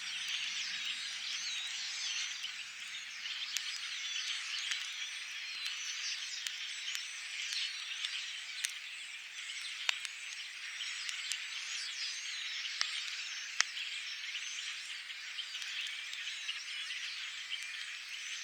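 A dense chorus of many small frogs calling on a spring night, with a campfire crackling and a few sharp pops in the second half.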